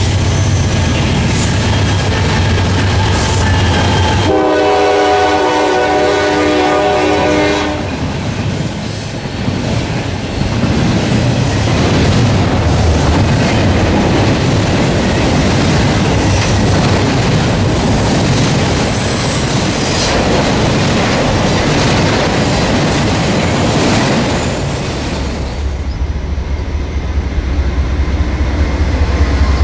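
Norfolk Southern diesel freight train passing: a deep locomotive engine drone, then a multi-note air horn sounding for about three and a half seconds, followed by intermodal stack cars rumbling and clattering over the rails for about seventeen seconds. Near the end the deep drone of another diesel locomotive builds as it approaches.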